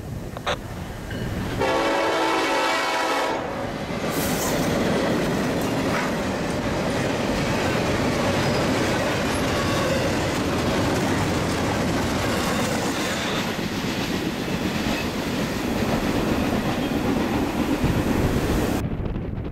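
Diesel freight train passing a grade crossing: one horn blast about two seconds in, then the steady rumble and wheel clatter of double-stack container cars going by. The sound cuts off suddenly near the end.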